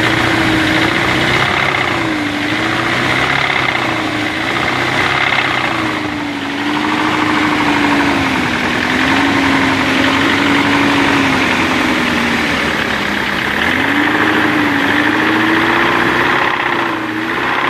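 BMW 318 E36 four-cylinder engine idling, with its pitch slowly wandering up and down; the owner says the engine is knocking.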